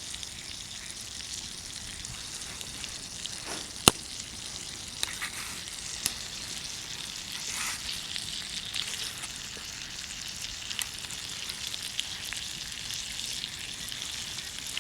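Campfire burning with a steady sizzling hiss and scattered crackles, and one sharp, loud pop about four seconds in.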